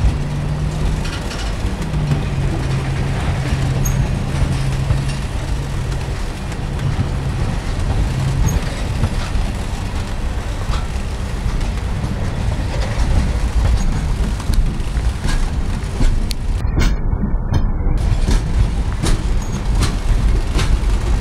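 Freight train cars rolling past at close range: a steady heavy rumble of steel wheels on rail with scattered sharp clicks and clanks. A low steady hum runs through the first several seconds.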